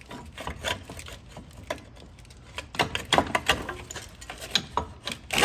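Irregular metal clunks, knocks and scraping as an old engine mount is worked loose by hand in a truck's engine bay, with a cluster of sharper knocks about three seconds in and a loud knock near the end.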